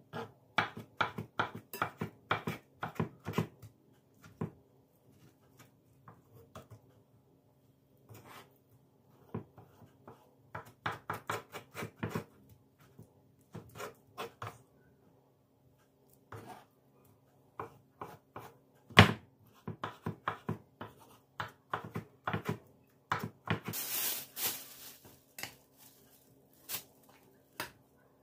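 Light clicks and knocks of items being handled in a kitchen, coming in quick clusters with pauses between, one sharper knock about two-thirds of the way through and a short hiss near the end, over a faint steady hum.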